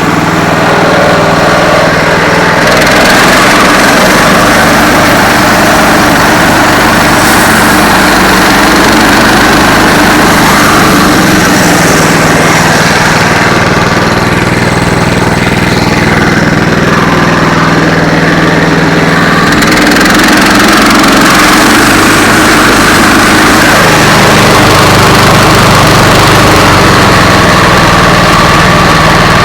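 Central Machinery bandsaw mill's gasoline engine running steadily under load while its band blade cuts a walnut log, with a sawing hiss that comes in a couple of seconds in.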